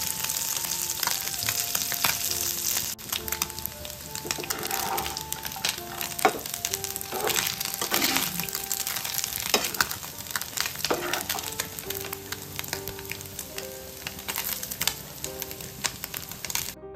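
Anchovies frying in shallow oil in a nonstick pan, sizzling steadily while a metal spatula scrapes and turns them with short sharp scrapes; the sizzle is louder in the first three seconds, then settles. Soft background music with held notes plays underneath, and the frying cuts off near the end.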